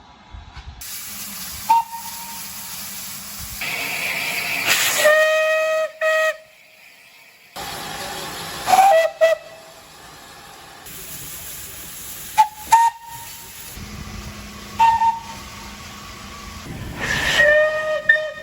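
Steam locomotive whistle sounding a series of blasts, some short toots and a couple lasting about a second, over a steady hiss of escaping steam.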